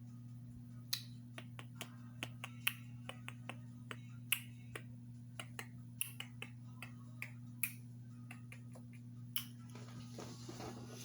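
Irregular sharp clicks and taps, about twenty over eight seconds and unevenly spaced, over a steady low hum.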